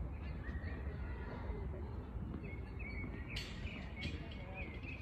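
Small birds chirping in short, repeated high calls over a steady low outdoor rumble, with one sharp tennis-ball knock about three and a half seconds in.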